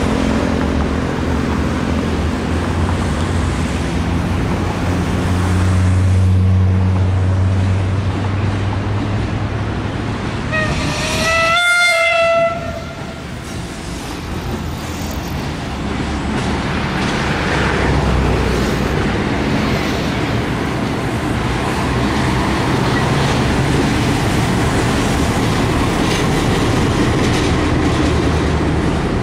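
EMD J26CW/AC diesel locomotive running past with a steady engine drone, then one horn blast of about two seconds, about eleven seconds in. After it, the rumble and clatter of the long-distance passenger coaches rolling by on the rails.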